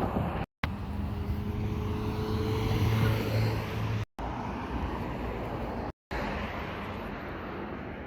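Street traffic: motor vehicles running by, one passing close and loudest about three seconds in. The sound cuts out to silence three times, briefly.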